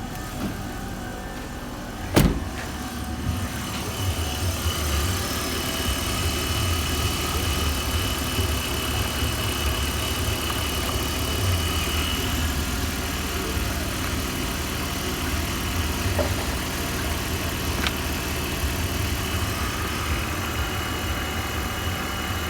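A sharp knock about two seconds in, then the BMW E39's 2.5-litre M52TUB25 inline-six petrol engine idling steadily.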